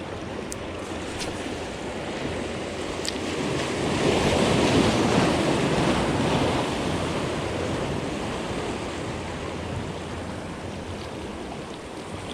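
Sea waves washing in; one surge builds about four seconds in and ebbs away over the next few seconds.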